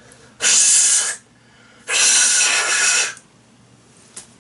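A man's mouth-made hiss imitating an arthropod: two long breathy hisses, the second longer, with a small click near the end.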